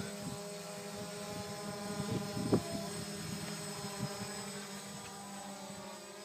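Quadcopter's electric motors and propellers humming steadily as it hovers in GPS hold, a steady buzz of several even tones that grows a little fainter toward the end.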